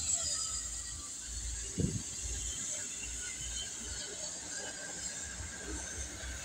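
Polregio SA137 diesel multiple-unit train with a coach between its units, rolling slowly past on departure. It makes an uneven low rumble of wheels on rail, with one louder knock about two seconds in.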